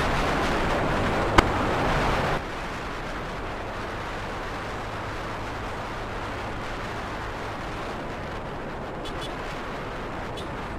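Wind rush on the microphone over a motorcycle engine's low hum while riding. There is a single sharp click about a second and a half in. The rushing noise drops off suddenly a little over two seconds in, leaving a quieter steady hum.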